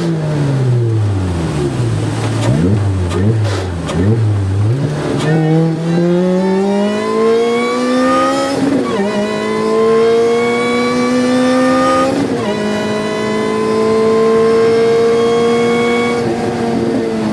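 A car's engine being driven hard on a circuit. For the first few seconds the pitch falls in steps with short blips, as on downshifts under braking. It then accelerates through the gears, with the pitch rising steadily and dropping sharply at two upshifts, before easing off near the end.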